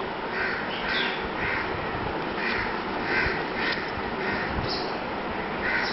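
A bird calling over and over, short rough calls about two a second with a couple of brief pauses, over a steady background hiss.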